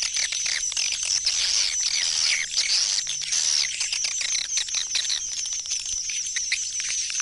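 Swiftlets twittering: a dense, unbroken chorus of rapid high chirps and clicks with quick falling notes. It is a swiftlet 'go back to the nest house' call, the kind played to draw the birds home to a swiftlet house.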